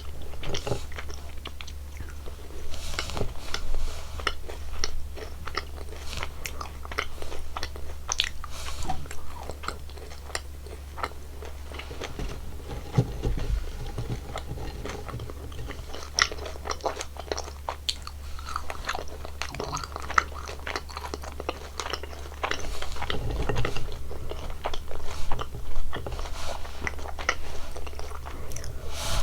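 Close-miked biting and chewing of jelly candies: many quick bites and wet chewing sounds, with a steady low hum underneath.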